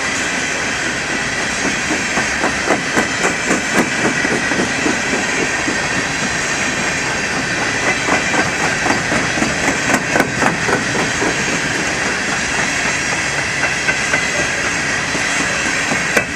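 Empty coal cars of a freight train rolling past: a steady rush of steel wheels on rail, with clusters of clicking every few seconds as wheel sets cross rail joints.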